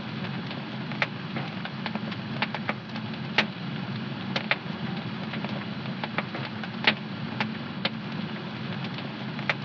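Wood fire burning in a home fireplace, crackling with irregular sharp pops, two of them louder, about a third and two thirds of the way through, over a steady low rumble of the flames.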